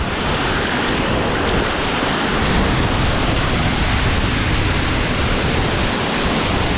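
Waterfall with water rushing steadily, a loud even hiss close to the microphone.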